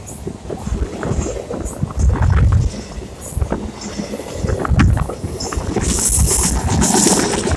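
Freight train of autorack cars rolling past close by: steady rumble of wheels on rail with scattered clicks and knocks, and wind buffeting the microphone in gusts. A hiss rises about six seconds in and lasts about a second.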